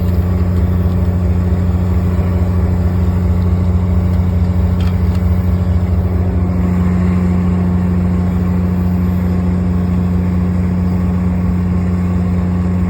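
Diesel locomotive of a standing commuter train idling, a loud steady low drone that does not change.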